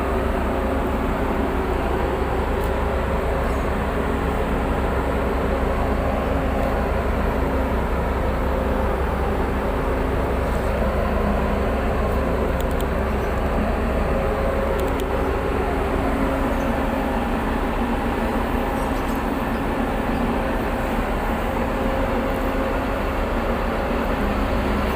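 Tugboat's diesel engines running steadily under load while towing, a deep constant drone with a steady hum above it.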